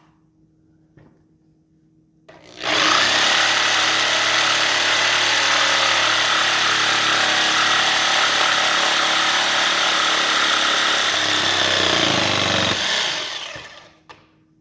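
Small table saw switched on and running loudly with a steady whine for about ten seconds, then switched off and winding down with a falling pitch.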